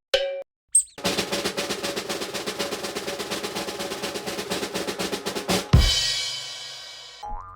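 Comedy sound-effect drum roll: rapid, even snare strokes for about five seconds, ending in one loud crash hit that rings away. Two short tone blips come just before the roll and a brief rising tone follows near the end.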